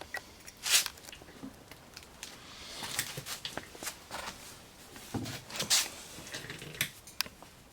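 Scattered small clicks, knocks and scrapes of hand work with parts and tools, with a louder rushing scrape just under a second in.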